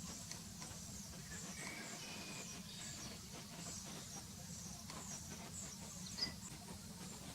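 Red-breasted flycatcher calling: a run of short, thin, high-pitched notes repeated several times a second, faint, with a few lower notes mixed in, over a steady low hum.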